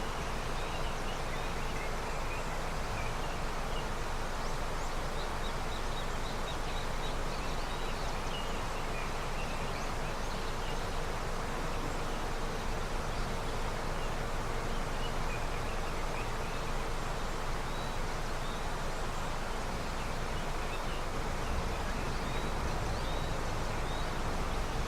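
Snowmelt river flowing steadily, a continuous rush of water, with scattered short high chirps of small birds over it.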